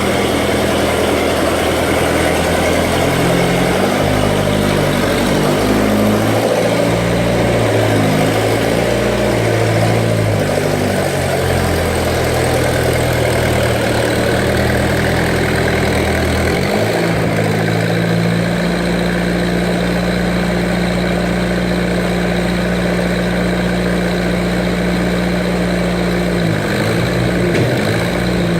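Skid steer loader's engine running loud and steadily, its pitch shifting up and down for the first two-thirds as it works, then holding at a steady speed, with a short dip near the end.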